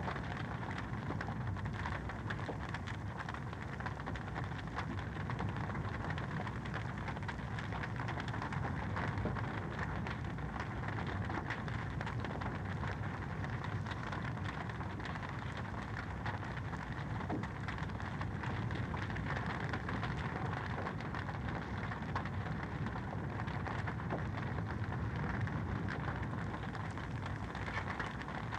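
Fireplace fire crackling: a steady hiss of flames dotted with many small pops and snaps.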